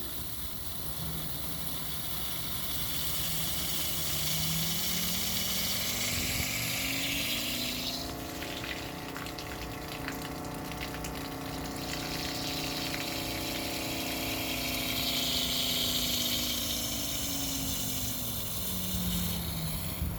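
Camping water pump motor running under pressure-based speed control: its hum rises in pitch a few seconds in, holds steady, then drops back near the end, with water spraying from the tap or shower. The motor speeds up and slows down with the water pressure instead of simply switching on and off.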